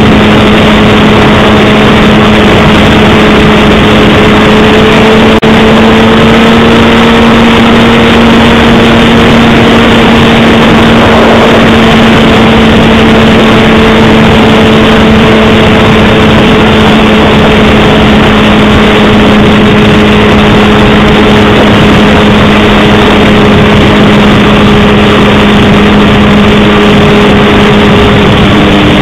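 Honda CBR600RR's inline-four engine running at a steady cruising speed, its pitch holding level, under loud wind rush over the microphone.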